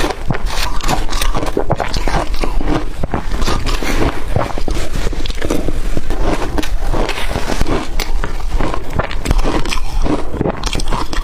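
Close-up crunching of blender-crushed ice being bitten and chewed, a dense run of crackling crunches.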